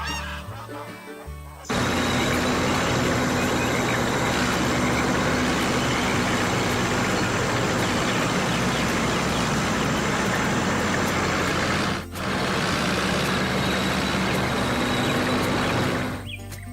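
Cartoon background music with a loud, steady rushing noise laid over it. The noise starts abruptly about two seconds in, breaks off for a moment near twelve seconds, and stops shortly before the end.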